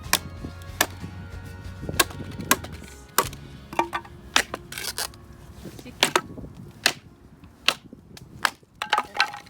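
Sharp wooden knocks and cracks at irregular intervals, about one or two a second, with faint background music under them.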